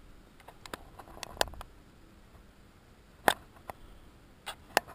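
A few irregular sharp clicks and taps, the loudest about three seconds in.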